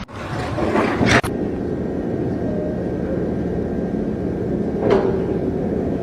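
A steady mechanical rumble, like a machine or vehicle running. It is preceded by a rising rush that ends in a short hiss about a second in.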